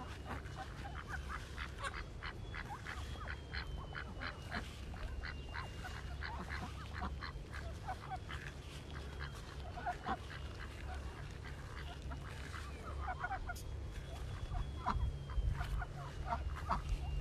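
A flock of farm poultry calling, many short overlapping honks and calls one after another. A thin, steady high tone runs underneath.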